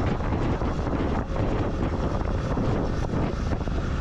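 Steady wind rush buffeting the microphone of a moving motorcycle, with the bike's running and road noise underneath.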